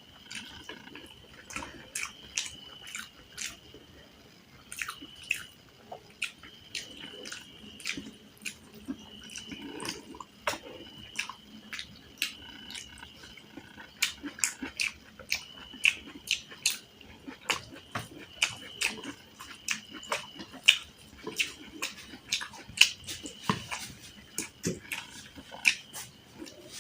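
Close-miked chewing and biting of food, with many sharp wet mouth clicks and smacks at an irregular pace.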